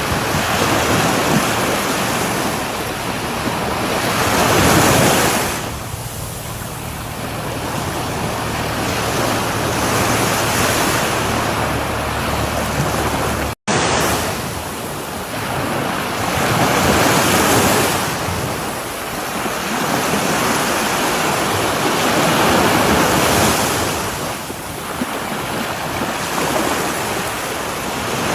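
Sea waves breaking on a shore, the surf noise swelling and easing in surges about every six seconds. The sound cuts out to silence for a split second about halfway through.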